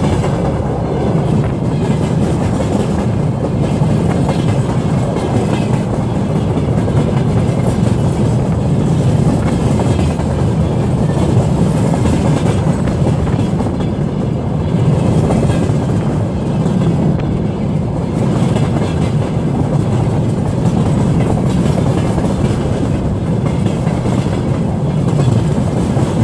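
Freight train tank cars and wagons rolling past close to the track: steel wheels on the rails make a loud, steady rumble.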